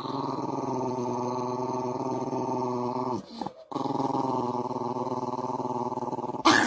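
A dog growling in two long, steady stretches of about three seconds each, with a short break between them.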